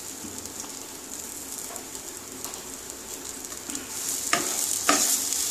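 Mashed moong dal sizzling steadily as it fries in a non-stick pan. About four seconds in, a wooden spatula starts stirring it, knocking twice against the pan, and the sizzling grows louder.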